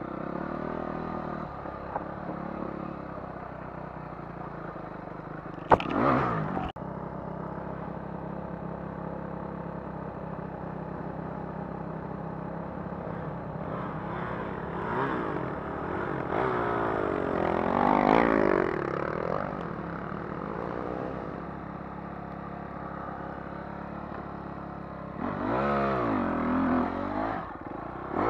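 Dirt bike engine running steadily, revved up and down several times, with rapid throttle blips near the end. A sharp clattering knock about six seconds in.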